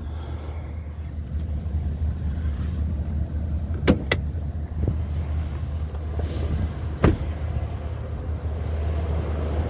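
Chevrolet Silverado 2500 HD pickup's engine idling with a steady low rumble, with sharp clicks or knocks about four seconds in and again about seven seconds in.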